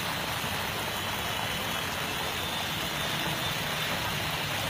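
Heavy rain falling on a road as a steady hiss, with the engines of a passing motorbike and an auto-rickshaw running underneath it.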